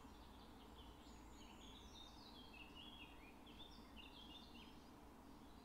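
Faint birdsong: a long run of quick, high chirping notes over a low, steady background hum.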